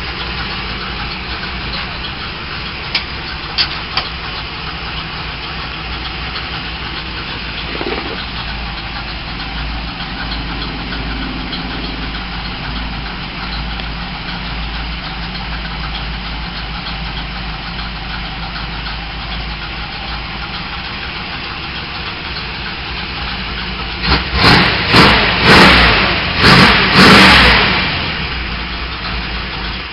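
Small-block Chevy 400 V8 in a 1948 Ford Anglia idling steadily, then revved hard in several quick blips near the end.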